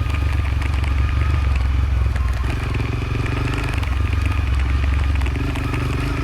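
Motorcycle engine running under way on a dirt road, over a heavy low rumble. Its note shifts about two and a half seconds in and again near the end.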